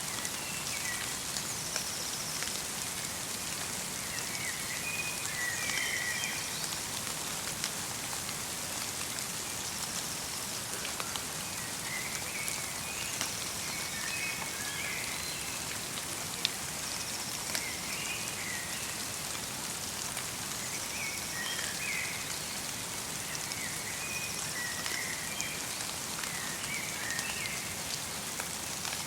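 Steady light rain, its many individual drops ticking. Over it, a bird gives short twittering calls every few seconds.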